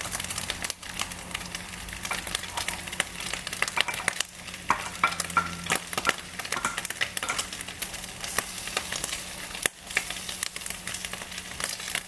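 Turkey bacon sizzling and crackling in a frying pan, with a steady run of small pops and spits.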